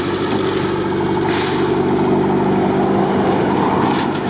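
An off-road vehicle's engine idling steadily. There is a short hiss about a second in, and near the end a passing vehicle towing a car trailer adds clattering and rattling.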